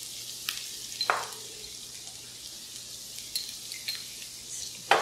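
Sliced red onions frying in olive oil in a stainless steel pan: a steady sizzling hiss with small crackles. A sharp knock comes about a second in, and a louder one near the end.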